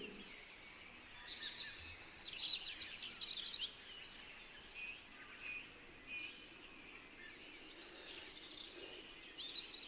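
Faint bird chirping in a few short bursts of quick high notes, over a soft background hiss.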